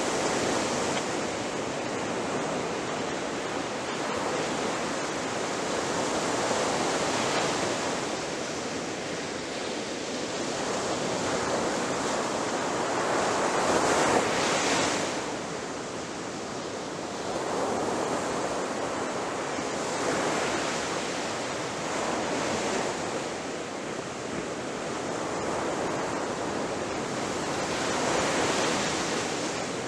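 Ocean waves breaking and washing ashore in a continuous surf, swelling and easing every few seconds, with one louder crash about halfway through.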